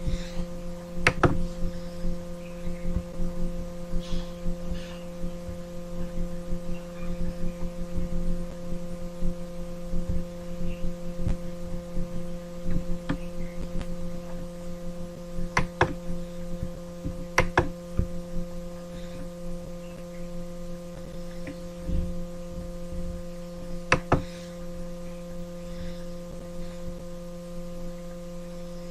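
Steady electrical hum, a low drone made of several fixed tones. A few sharp clicks come through it now and then.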